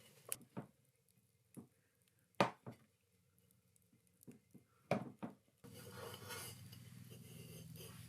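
Cooking utensils knocking and clinking against pots and dishes, a handful of separate knocks with the loudest about two and a half seconds in. Just past the middle a steady low rushing noise starts.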